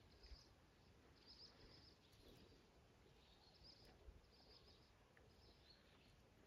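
Near silence outdoors, with faint birdsong: short high chirping phrases repeating every second or so.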